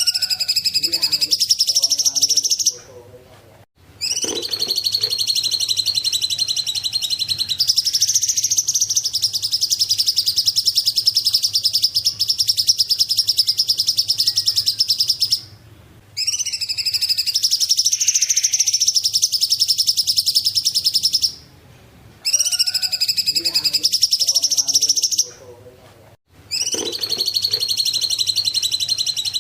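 A cungkok songbird's rapid, high-pitched chattering song, delivered in long unbroken bouts of several seconds with brief pauses between them, the pattern repeating.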